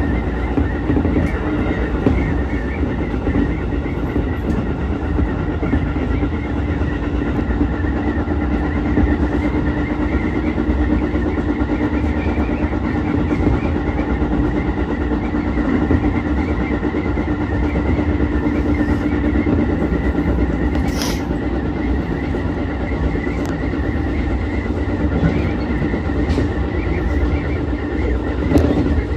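Ichibata Electric Railway 7000-series electric railcar running along the line: a steady rolling rumble and motor hum, with a held tone that fades out about 20 seconds in. There is a brief sharp high-pitched noise about 21 seconds in.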